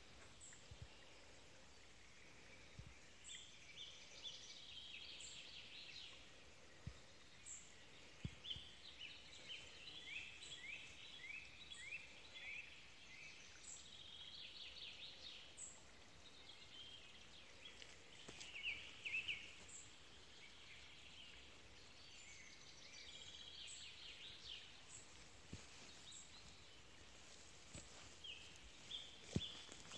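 Faint woodland birdsong: songbirds singing short chirps and quick trills that repeat at intervals, with a few soft clicks.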